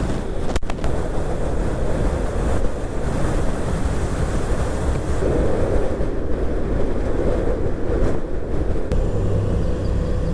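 Strong wind buffeting the microphone on a moving motorcycle: a loud, steady rush with the bike's running noise underneath. A short click about half a second in.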